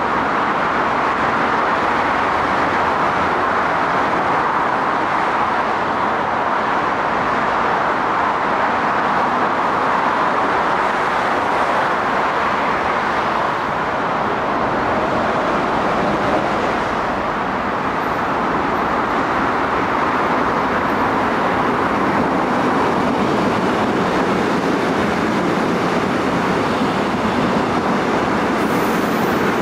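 Steady road traffic noise, joined in the second half by a Hyundai Rotem Korail 321000-series electric multiple unit running through the station without stopping, its wheels rolling over the rails.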